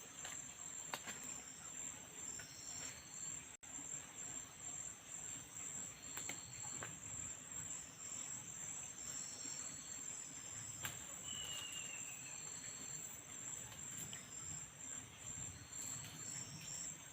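Forest insect chorus: crickets trilling steadily at a high pitch, with short repeated chirps from other insects and a brief falling whistle about eleven seconds in, over faint scattered clicks.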